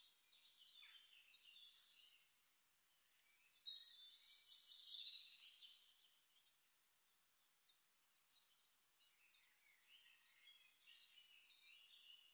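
Faint chirping and twittering of birds, many short high calls, a little louder for about two seconds around four seconds in.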